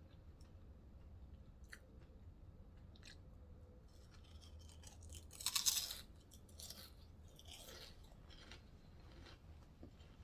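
Close-up eating sounds of a Subway sandwich being chewed: soft, scattered mouth clicks and smacks, with one much louder crunchy burst about five and a half seconds in and two softer ones shortly after.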